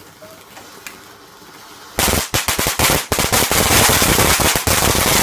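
Firework going off in a rapid string of loud cracks and bangs, starting suddenly about two seconds in.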